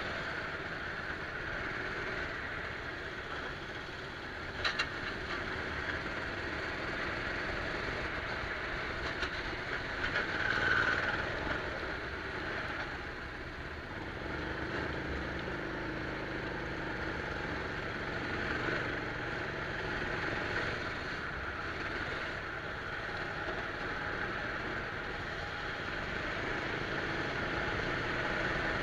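Rental kart's engine running steadily through a lap, heard from a camera carried on the kart, with a couple of brief knocks about five seconds in.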